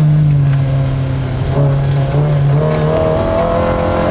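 MG F rally car's engine running hard on a special stage, heard from inside the cabin, its revs shifting up and down through the bends.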